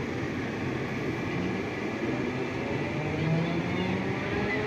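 Inside a moving 81-740.1 metro car: wheel and rail noise with the rising whine of the traction motors as the train gathers speed.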